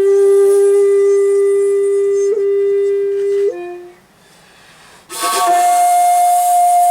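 Solo shakuhachi (end-blown bamboo flute) in the slow komuso style. A long held low note ends with a short flick up and falls away, then after a pause for breath a higher note enters with a breathy rush of air and is held.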